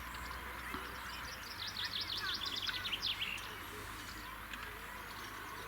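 A small songbird singing one fast phrase of rapidly repeated high notes, starting about a second and a half in and lasting under two seconds, over steady outdoor background noise and a few faint chirps.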